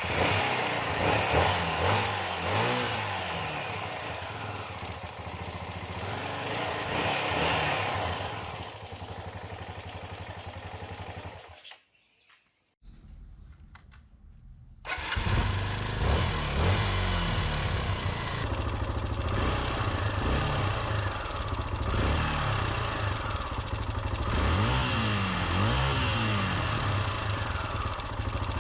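Restored Honda NX250's liquid-cooled single-cylinder engine running and being revved in repeated blips. The sound drops away for about a second near the middle, then the engine runs again with more rev blips.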